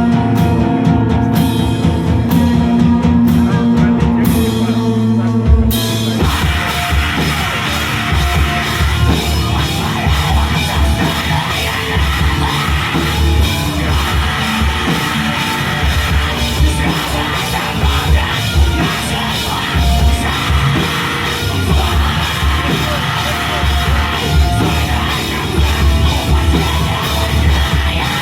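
Rock band playing live: held chords for the first few seconds, then the full band with drums crashes in about six seconds in and plays on loud and dense.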